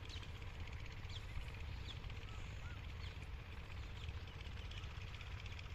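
Single-cylinder 8 hp diesel pumpset engine running steadily with a fast, even thudding beat, while small birds chirp now and then.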